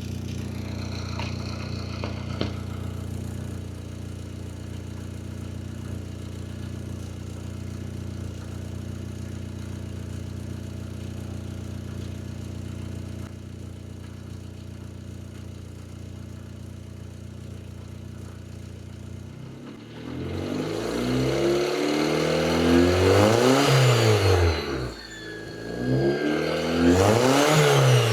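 Audi engine running through a homemade welded exhaust, idling steadily, then revved twice near the end, its pitch climbing and falling back each time.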